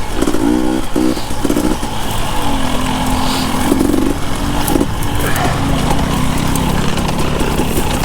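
Husqvarna TE 250i two-stroke enduro motorcycle engine being ridden, revving up and down in short throttle bursts over the first couple of seconds, then holding steadier notes that shift in pitch.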